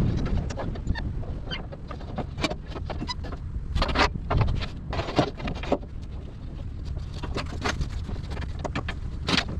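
Irregular clicks and knocks, several louder ones about four, five and nine seconds in, over a steady low rumble of wind on the microphone.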